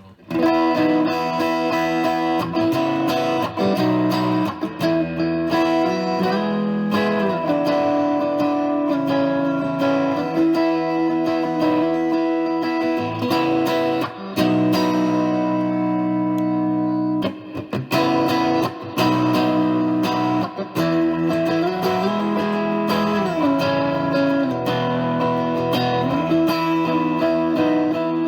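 Electric guitar playing chords and riffs through a Silverhorse overdrive, a Klon-style pedal, into a Boss Katana amp. The chords are strummed and let ring, with brief breaks about 14 and 17 seconds in.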